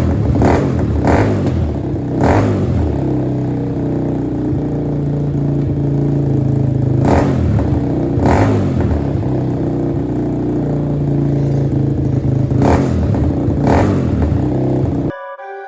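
Small motorbike engine running through its new exhaust, with about seven short sharp bursts over its steady drone. The engine sound cuts off suddenly about a second before the end, and music starts in its place.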